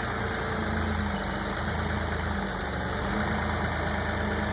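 John Deere 2038R compact tractor's three-cylinder diesel engine running steadily.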